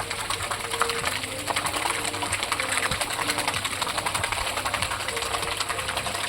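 Rapid, continuous clattering of waterfowl bills dabbling and sifting food at the water surface as swans feed.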